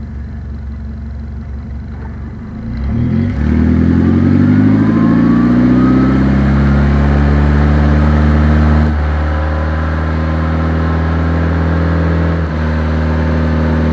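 Saturn sedan's engine revving in gear with its front wheels spinning freely off the ground on a jack. About three seconds in the engine speed climbs, with a rising whine, then holds high, easing off slightly near nine seconds and picking up again near twelve. The automatic transmission does not shift: it is stuck in fourth gear.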